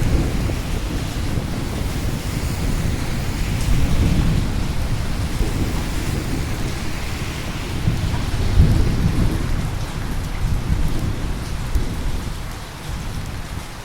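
Steady rain falling, with rolling thunder rumbling low. The thunder swells twice and eases off near the end.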